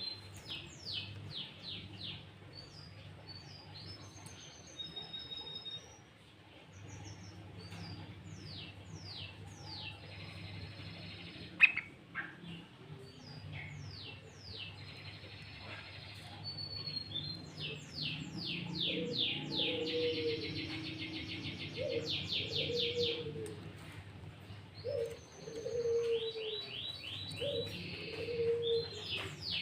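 Sooty-headed bulbul (kutilang) singing: quick runs of high, falling chirps and short whistles, delivered as a loud lure song. Lower warbling notes join about two-thirds of the way through. A single sharp click sounds near the middle.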